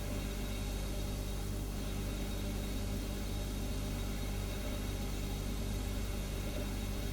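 Refrigerator humming steadily, a low hum made of several steady tones over a soft even hiss.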